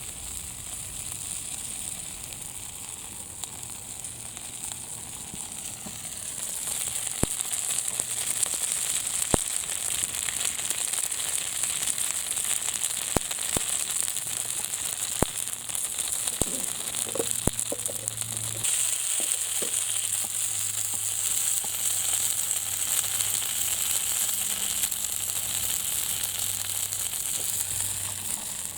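Wood fire burning in a homemade folding fire pit: a steady sizzling hiss with scattered sharp crackling pops, the sizzle growing louder a few seconds in.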